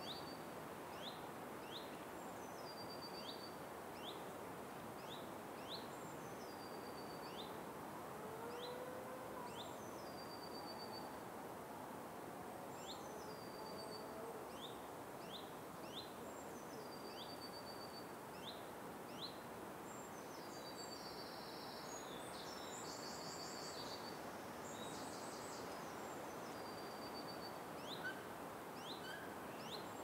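Forest birds calling over a steady background hiss. One bird repeats a short phrase of quick rising notes and a high, level series of notes about every two seconds, and a buzzy high call joins about two-thirds of the way through.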